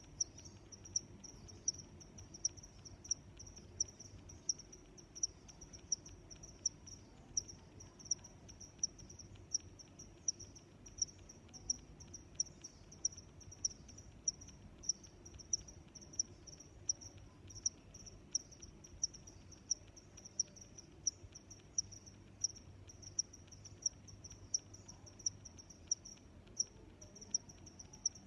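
A cricket chirping in a steady, even rhythm of short, high-pitched chirps, a little under two a second, over a faint low background rumble.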